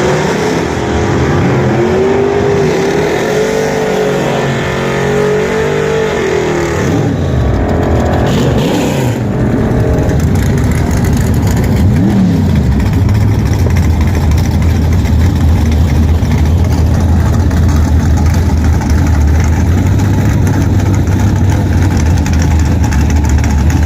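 Pontiac car engine running under load with a pitch that wavers up and down for about seven seconds. It then falls away to a steady low rumble, running near idle for the rest.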